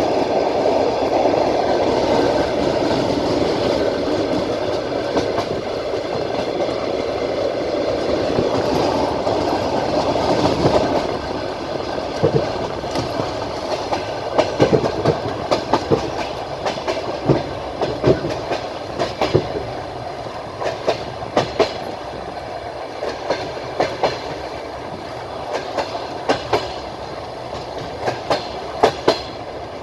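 Train wheels on the rails, heard from aboard a moving train: a steady rumble for the first ten seconds or so, then a quieter run with sharp clacks over the rail joints coming in twos and threes.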